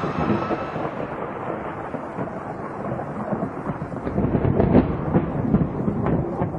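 Thunder rumbling, growing louder about four seconds in, with a few sharp cracks.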